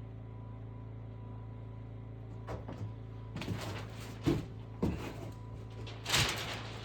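Several irregular knocks and clunks, the loudest near the end, over a steady low hum.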